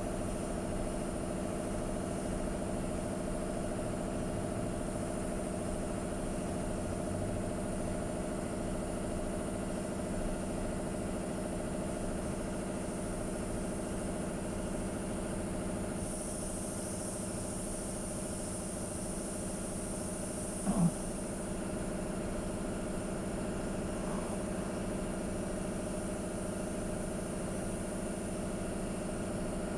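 A motor or engine running steadily, a hum of several steady tones. For a few seconds past the middle a higher hiss joins it, and a brief short squeak stands out about two-thirds in.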